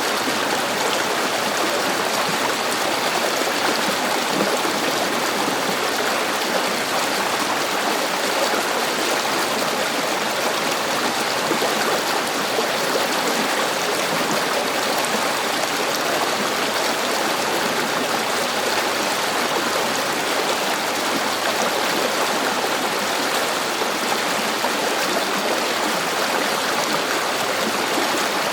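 River water running over a streambed: a steady, even rushing with no pauses or changes.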